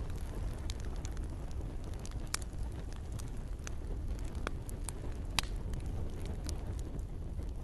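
Campfire crackling: scattered sharp pops and snaps from burning wood over a steady low rumble of the flames, with two louder pops about two and five seconds in.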